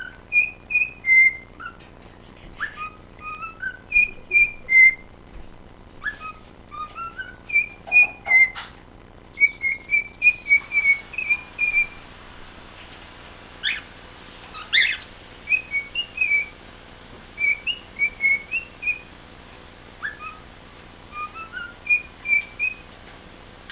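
Cockatiel whistling a learned tune: short melodic phrases of clear whistled notes, repeated again and again, with a couple of brief sharper chirps about halfway through.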